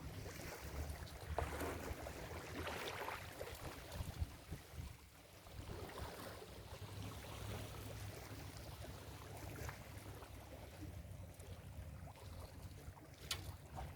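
Ocean surf washing onto a beach in a few soft swells over a steady low rumble, with a single sharp click near the end.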